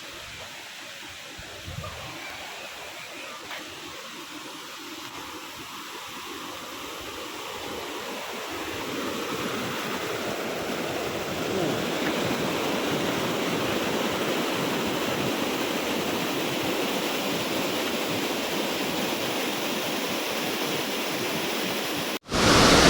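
Rushing water of a waterfall and stream in high, fast rainy-season flow: a steady hiss that is faint at first, swells over a few seconds from about a third of the way in, then holds steady. It cuts off suddenly just before the end.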